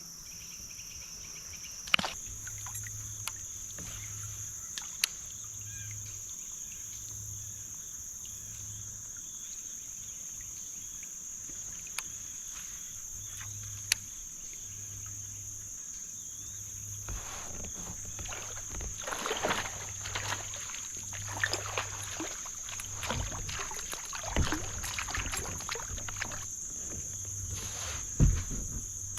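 Steady high chirring of crickets, broken by a few sharp clicks. About halfway through, irregular water splashing and knocks around a kayak begin and go on to the end.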